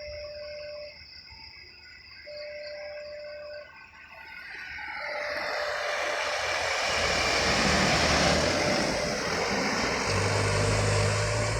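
A heavy tronton truck grinding past at crawling speed on an uphill bend: a rushing engine-and-tyre noise swells to its loudest about two-thirds of the way in, and a low engine drone comes up near the end. Before it arrives, two short steady tones sound faintly.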